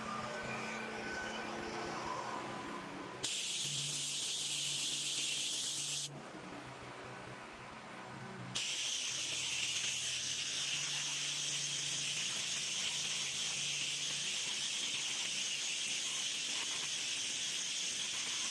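Soft-wash spray nozzle hissing as cleaning solution is sprayed onto a concrete tile roof: a burst of about three seconds, then, after a short pause, a long continuous spray.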